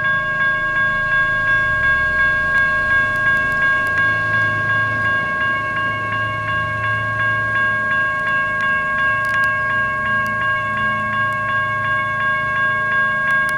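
Railroad crossing's GS Type 1 electronic bell ringing continuously in fast, even dings, over the low rumble of a passing light rail train.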